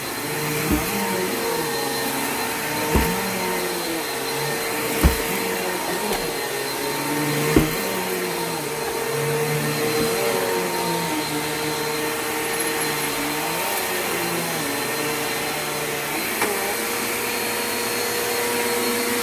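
Bissell vacuum cleaner running steadily with a constant whine, its lower hum rising and falling as it is pushed back and forth over the floor. Four short thumps come in the first eight seconds.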